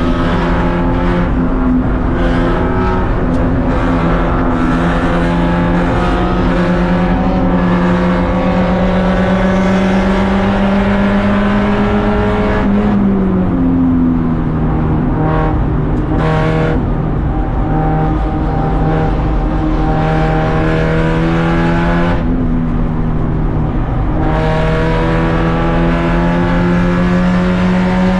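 Race car engine running hard at high revs, its pitch climbing slowly as it pulls. Near the middle the revs drop suddenly and then pick up again, and there are a few more shifts in pitch later on: lifting, braking and gear changes.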